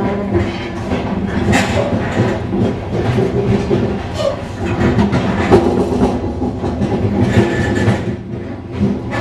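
Passenger train running at speed, heard from inside a carriage: a steady rumble of wheels on the rails with irregular clicks and knocks of track clatter.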